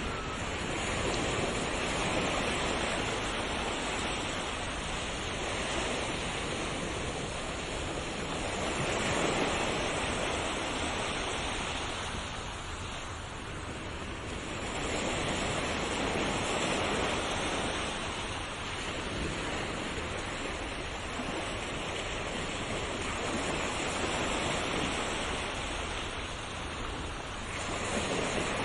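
Ocean waves breaking and washing on a shore, a continuous rush of surf that swells and ebbs every several seconds.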